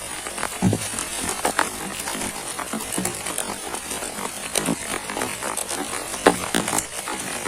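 Heavy rain falling steadily, with irregular sharp taps of drops striking nearby surfaces.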